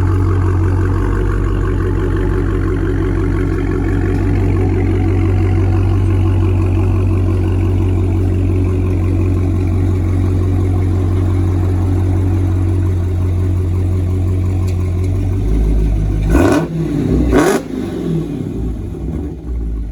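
Supercharged 6.2-litre Hemi V8 of a 2016 Dodge Challenger Hellcat, its mid mufflers removed with the resonators left in, idling with a deep steady exhaust note. Near the end it is sharply revved twice, about a second apart.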